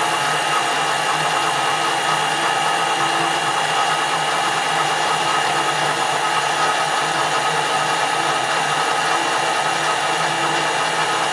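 Metal lathe running steadily during a thread-cutting pass, a constant machine hum and whine that does not change.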